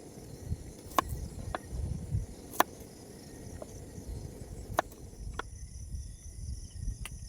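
Steady high insect chirring, typical of crickets, with about six sharp knocks or clicks at irregular intervals over a low rumble.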